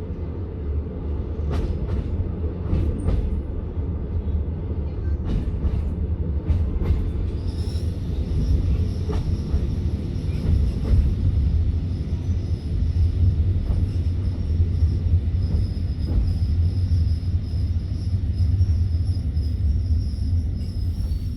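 Passenger train rolling on the rails, heard from inside the carriage: a steady heavy rumble with a few sharp rail-joint clicks in the first seconds. About seven seconds in, a thin high steady squeal from the wheels sets in and carries on over the rumble.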